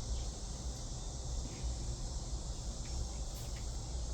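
Steady high-pitched insect chorus with a low rumble underneath.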